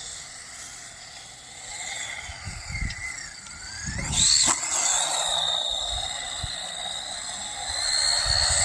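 Electric motor of a brushed 1/18-scale RC truck whining as it drives, the high whine rising and falling with the throttle. It surges sharply about four seconds in and again near the end, with low rumbling from the tyres over the ground.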